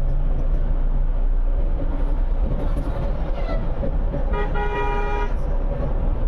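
A vehicle horn sounds once for about a second, over a steady low rumble of moving vehicles or a train.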